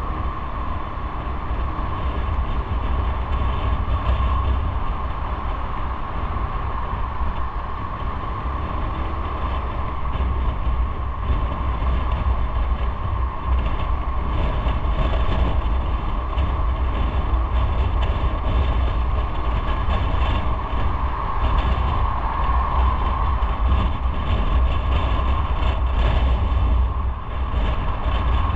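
Motorcycle underway: engine running with steady wind and road noise on the microphone, a constant low rumble with light rattling.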